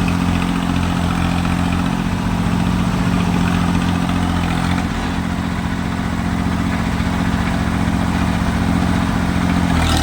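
Tractor diesel engine running at a steady speed. Its note drops slightly about five seconds in and starts to rise right at the end.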